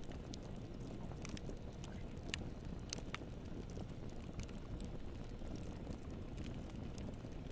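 Wood fire crackling in a fireplace: scattered sharp pops and snaps, a few of them louder, over a steady low rumble of burning.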